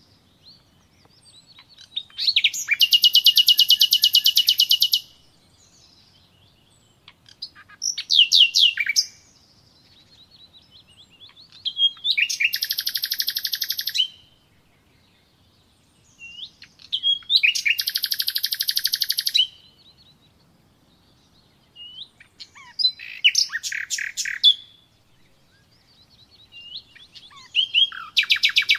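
A songbird singing the same song over and over: a few quick high notes running into a fast, rattling trill lasting one to three seconds. The song comes about six times, roughly every five seconds, with short pauses between.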